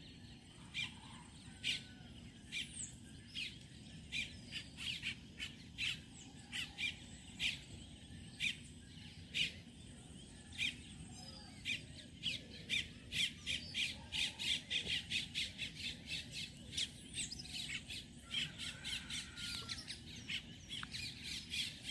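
Birds calling: a long run of short, sharp, high chirps over faint steady background noise, spaced out at first and coming several a second from about halfway through.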